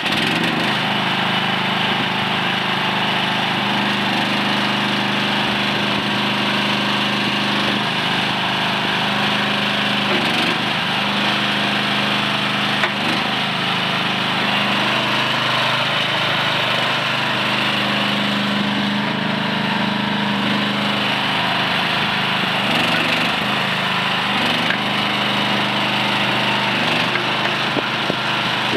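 Engine of a Landhero LDH-KN16 mini excavator running steadily, its note shifting a little now and then.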